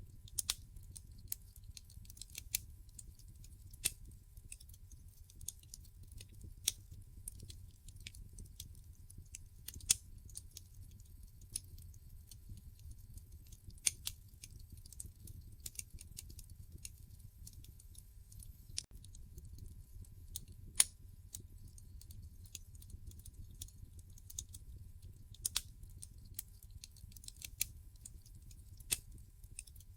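Wood fire in a fireplace crackling: irregular sharp pops and snaps, one louder than the rest about two-thirds of the way through, over a low steady rumble.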